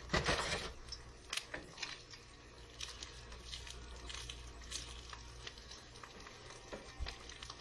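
An egg frying in vegetable oil in a pan, sizzling with scattered small crackles and pops, over a low steady hum. A brief louder rustle comes right at the start.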